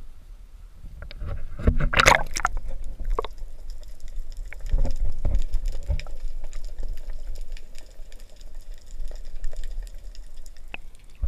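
Sea water splashing and lapping close to the microphone in irregular bursts, the loudest about two seconds in and another about five seconds in, over a constant low rumble.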